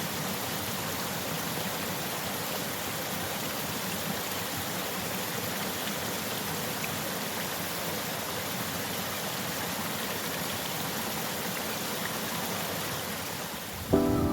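Stream running, a steady rush of water. Music cuts in right at the end.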